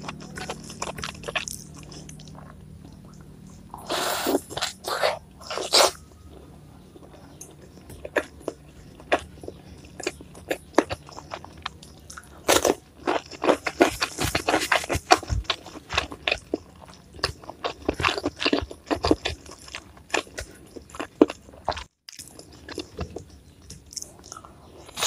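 A person eating close to the microphone: crunchy bites and chewing, with loud clusters of crunching about four seconds in and again about halfway through.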